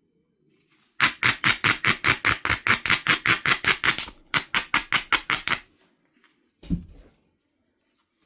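Rapid, even strokes of a knapping tool against the edge of a Knife River flint biface, about six a second. Two runs of strokes, the first about three seconds long and the second shorter after a brief pause, are followed a second later by a single dull thump.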